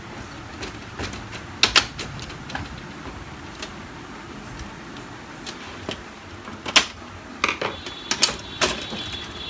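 Plastic clicks and knocks of a Canon LBP 6030 laser printer's top cover being fitted and snapped into place on the chassis: a pair of sharp clicks about a second and a half in, then a run of louder clicks and taps near the end.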